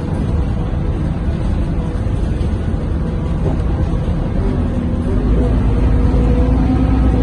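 Scania K230UB bus's diesel engine heard from inside the passenger cabin, running steadily. About five seconds in, the low rumble grows louder as the engine takes on more load and the bus accelerates.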